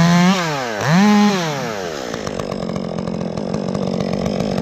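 Chainsaw revved twice in quick succession, the pitch rising, holding briefly and falling each time, then running steadily at a lower speed.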